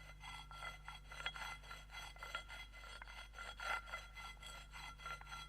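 Faint rasping, rubbing strokes repeating about three times a second, over a steady low hum.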